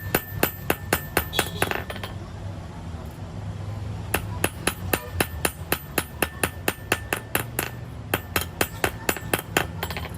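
Rapid, evenly paced hammer blows on the metal clutch plate, about four a second, some with a brief metallic ring. There is a short run, a pause of about two seconds, then a longer run, over a steady low hum.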